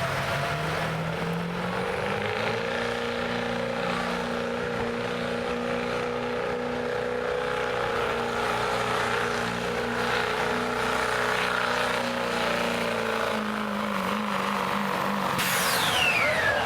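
Stock diesel pickup engine revving up over the first couple of seconds, then held at high revs under load while pulling a sled, easing off after about thirteen seconds. Near the end a high whistle falls steeply in pitch.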